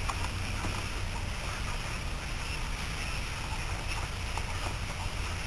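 Steady low rumble of wind buffeting the microphone outdoors, with a few faint small ticks and rustles.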